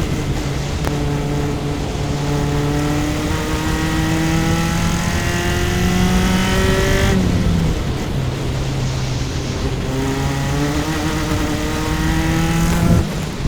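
Single-seater formula race car engine, recorded onboard, pulling hard at full throttle. Its pitch climbs steadily through a gear, drops at an upshift about seven seconds in, then climbs again to another shift near the end.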